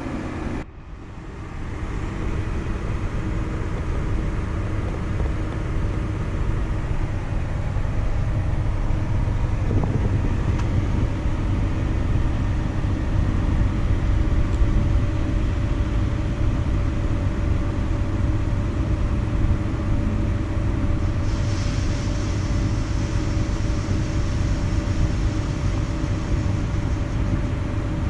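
Combine harvester running steadily during harvest: a low machine rumble with a steady whine over it. A hiss comes in about three quarters of the way through.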